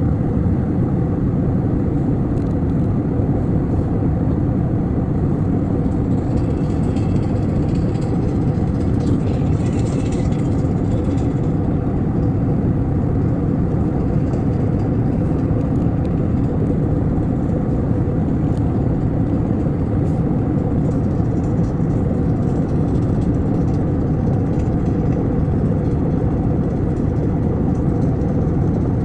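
Steady airliner cabin noise: a loud, even, low rumble of engines and airflow heard from inside the passenger cabin.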